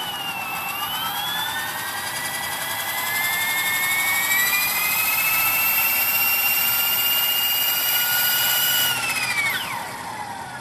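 Align T-Rex Pro flybarless RC helicopter running on the ground in a spool-up test: a pitched whine that dips briefly, climbs and holds steady, then falls away quickly as the rotor spools down near the end.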